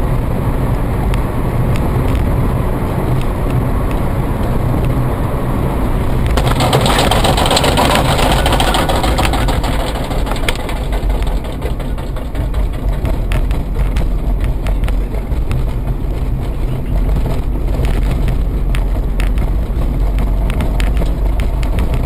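Vehicle engine and road noise recorded by a dash camera, a steady low rumble with small rattles, rising to a louder rushing noise for a few seconds about a third of the way through.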